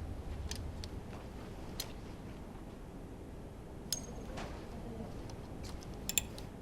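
Scattered sharp metallic clicks and clinks of tools and parts being handled while an engine is taken apart. A quick double click comes near the end.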